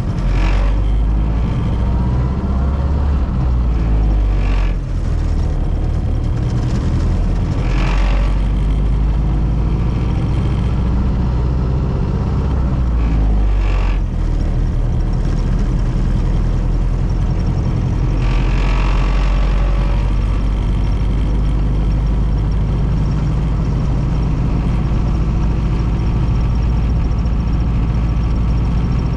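1932 Ford Model B's four-cylinder flathead engine running as the car is driven: a steady low rumble whose pitch shifts a few times.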